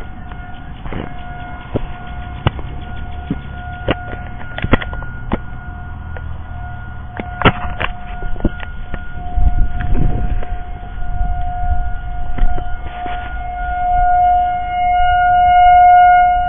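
Civil defense warning siren being tested, one steady wailing tone that swells louder over the last few seconds. Scattered clicks and knocks and a low rumble sound close by.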